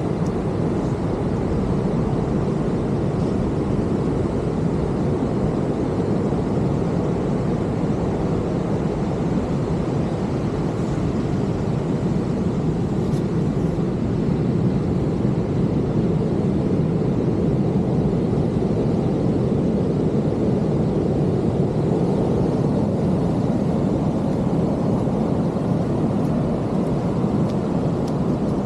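Heavy ocean surf from large storm waves breaking on the beach: a steady low wash of noise with no single crash standing out.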